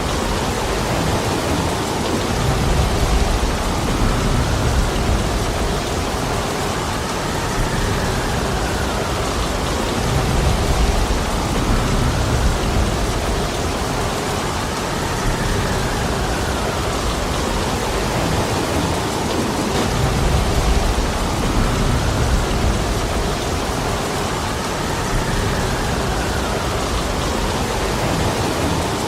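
Heavy rain falling steadily in a dense, even hiss. A low rumble swells and fades about every eight seconds.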